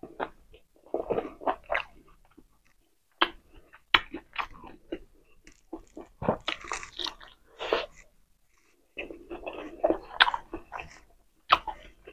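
A person chewing and biting food close to the microphone: irregular spells of wet mouth sounds and sharp clicks, with a couple of short pauses between them.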